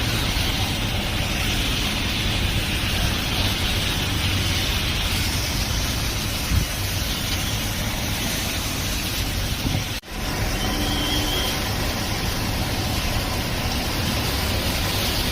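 Steady road traffic noise of passing vehicles, breaking off for an instant about ten seconds in.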